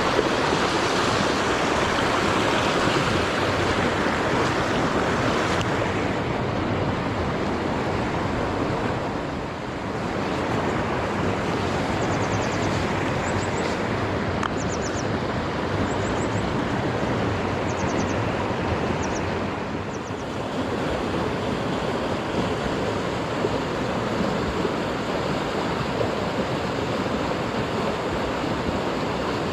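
Mountain stream water rushing steadily over rocks. A few faint high chirps come through in the middle.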